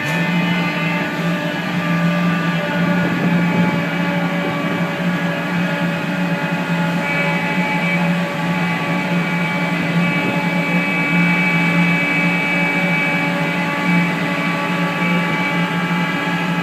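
Steady engine or machinery drone, with a strong low hum and several steady higher tones above it.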